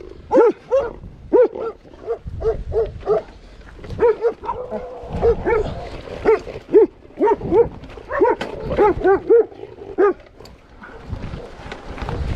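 A dog barking in a rapid run of short barks, two or three a second, which stop about ten seconds in.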